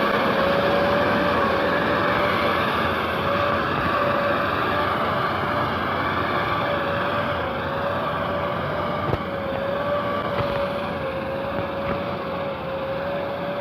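A vehicle engine running steadily, with a constant whine over a broad rumble.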